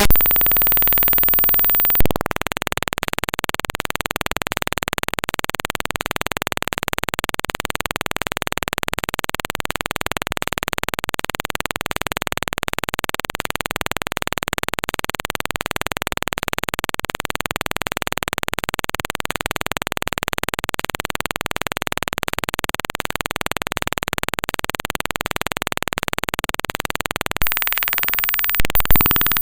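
Raw bytes of a Windows executable (DellTPad.exe) played back directly as audio. After a short, louder burst at the start it settles into a steady, unchanging hiss-like noise. Near the end it breaks into choppier, shifting noise.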